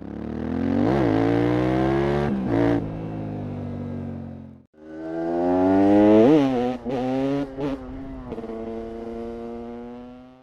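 KTM 690 SMC R's single-cylinder engine revving: the pitch climbs to a sharp peak and drops back, followed by a few short blips and steadier running. The engine is heard in two separate passes, each fading in and out, with a short gap just before the middle.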